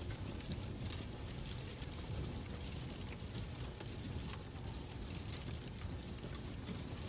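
Fireplace fire crackling: irregular small pops and crackles over a steady low rumble.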